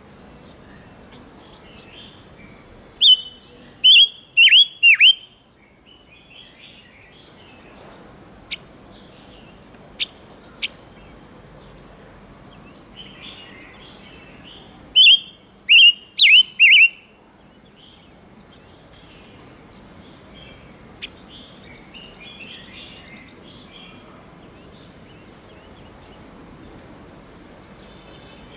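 Silver-eared mesia calling: two bursts of four or five loud, sharp downslurred notes about twelve seconds apart, with soft twittering and a few single ticks between them. This is a lure recording used to call in wild birds and excite caged males.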